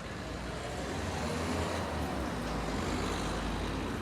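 A motor vehicle passing on the street, its low engine rumble and road noise swelling over the first second or so and easing off near the end.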